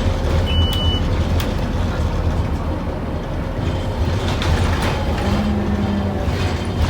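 Scania N230UD OmniCity double-decker bus heard from inside the cabin: its five-cylinder diesel engine running with a steady low rumble, with scattered body rattles and clicks. A whine comes in about five seconds in and rises slightly.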